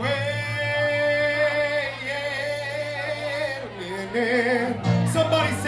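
Live singing: a singer holds one long note for about three seconds, then sings shorter phrases with a wavering vibrato, over a steady low accompaniment.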